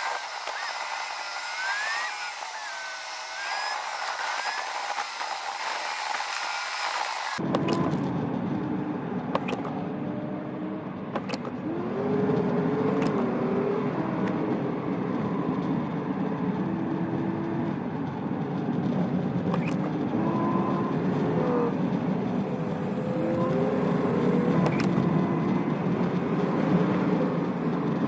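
A car driving through snow, heard with its engine note and road noise. About seven seconds in, a low rumble sets in abruptly, and after that the engine pitch holds, rises and falls with the speed, with a few faint clicks.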